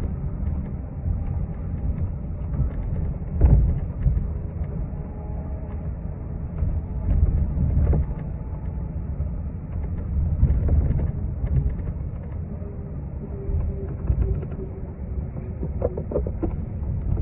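Inside a moving city bus: a steady low rumble of the drivetrain and road, with occasional knocks and rattles. The loudest is a thump about three and a half seconds in.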